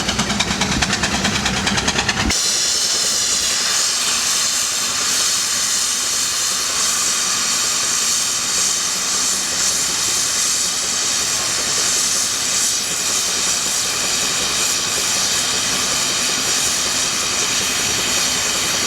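A fast, even mechanical chugging for about two seconds, then a loud, steady hiss of escaping steam that starts suddenly and keeps on.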